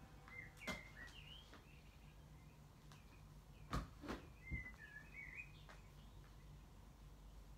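Faint bird chirps, two short clusters of twittering calls, over a low room hum. Several light knocks and clatters from things being handled at a wardrobe, the loudest a little under four seconds in.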